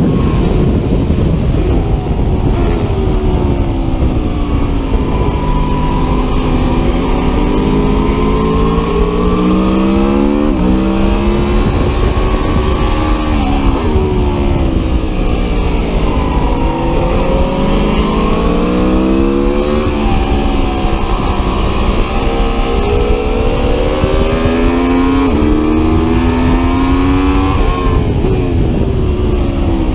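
Aprilia Tuono V4 RR's V4 engine at full track pace: the revs climb in steps with quick breaks at each upshift, then sweep down as it is shifted down for corners, several times over. A steady rush of noise runs underneath.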